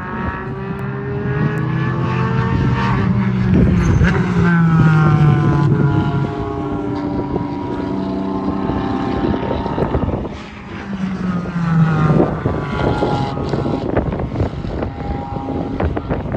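Cars' engines at high revs passing at speed, twice: one about four seconds in and another about twelve seconds in, each engine note dropping in pitch as it goes by.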